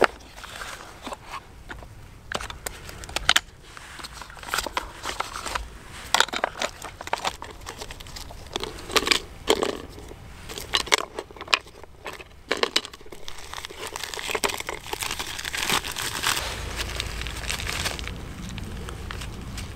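Dry twigs being snapped and handled for kindling: irregular sharp cracks and crinkling rustles.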